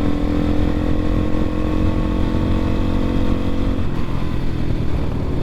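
X-Pro Templar X 250 dirt bike's engine running at a steady speed while riding, over a constant rumble of wind noise. The steady engine note fades about four seconds in.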